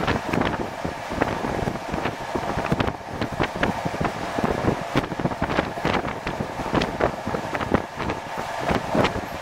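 Passenger train carriage running at speed, heard at its open exterior door: a steady rush of wind and running noise from the wheels and track, with frequent irregular knocks and rattles.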